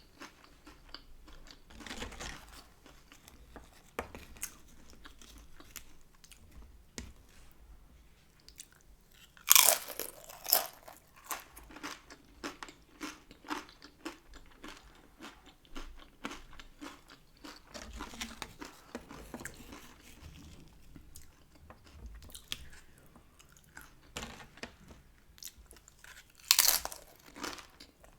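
A person chewing crisp corn tortilla food close to the microphone, with a steady run of small crunches and two loud crunching bites, one about ten seconds in and one near the end.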